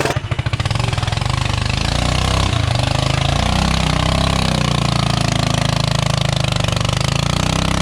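Modified off-road lawn tractor's engine running hard under load in mud. It goes from a lumpy, pulsing note to a steady high-rev run about half a second in, and stays there with small rises and dips in pitch.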